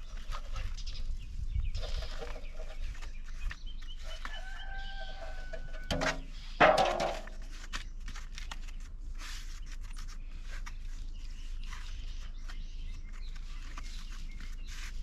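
An animal calls twice near the middle: a held, pitched call, then a louder, rougher one. Scattered light clicks and rustles run underneath.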